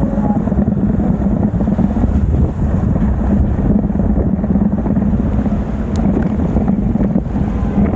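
Steady wind rush on the microphone of a moving bicycle's camera, mixed with tyre and road noise on a rain-soaked road. A short click sounds about six seconds in.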